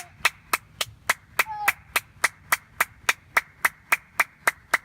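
One person clapping hands in a steady, even rhythm, a little under four claps a second.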